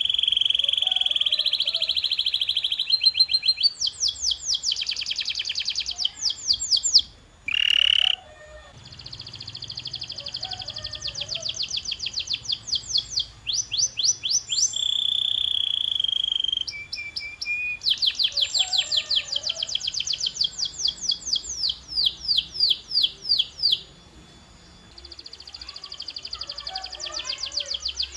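Domestic canary singing: fast trills and rolls of rapidly repeated high notes, one phrase following another, each held for a few seconds at a steady rate, with brief breaks about 7 seconds in and again about 24 seconds in.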